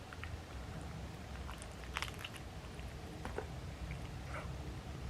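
A person chewing a mouthful of grilled chicken wrap, with scattered small wet mouth clicks, a slightly louder cluster about two seconds in.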